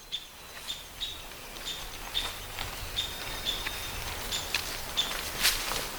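Outdoor ambience: a bird repeating short, high chirps every half second to a second over a faint steady hiss.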